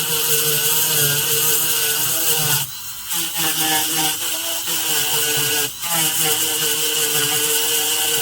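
Dental handpiece spinning a soft wool polishing bur against an amalgam filling: a steady whine that wavers in pitch. It cuts out briefly about three seconds in and dips again near six seconds.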